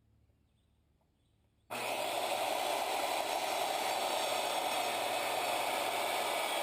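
An electric power saw switches on abruptly about two seconds in and runs steadily and loudly, cutting lumber boards.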